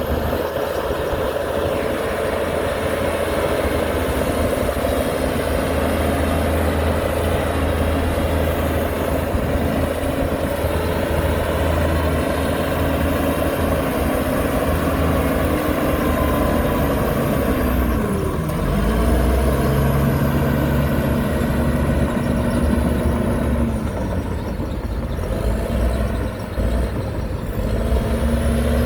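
Heavy diesel engine of earthmoving machinery running steadily; its pitch drops sharply and climbs back about two-thirds of the way through.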